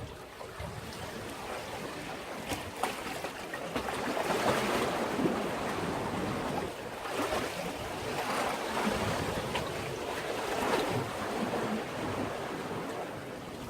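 Sea waves washing against a breakwater, swelling and falling back in several surges; the loudest comes about four to six seconds in.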